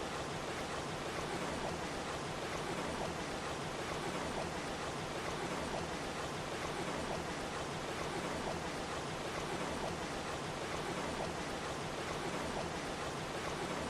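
Waterfall, falling water making a steady, even rush of noise without breaks.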